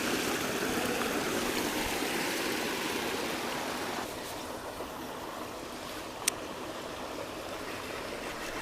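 Creek water running steadily, a little quieter after about four seconds, with one sharp click about six seconds in.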